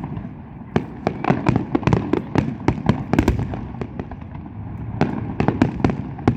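Fireworks display: rapid, overlapping bangs and crackling pops. They ease off briefly about four seconds in, then build again near the end.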